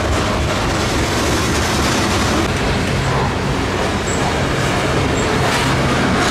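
Freight train cars rolling past close by: a steady rumble and rattle of steel wheels on the rails.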